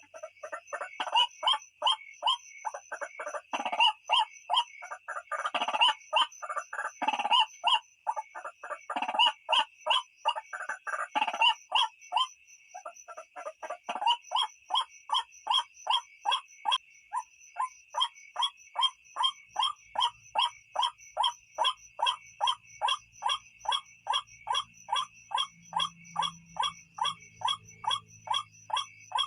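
White-breasted waterhen (ruak-ruak) calling, a lure recording: a dense run of overlapping calls in the first half, settling about halfway in into an even series of about two to three calls a second.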